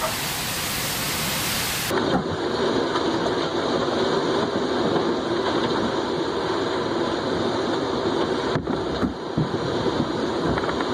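Steady, loud storm noise of strong wind. About two seconds in the sound changes abruptly to a duller, lower rushing.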